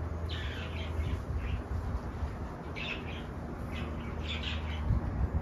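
Small birds chirping in the background: a few short, high calls scattered through, over a low steady hum.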